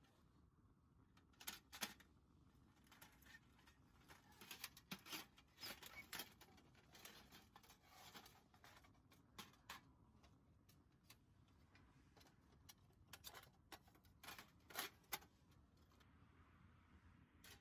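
Faint, irregular clicks and short bouts of rustling, in clusters.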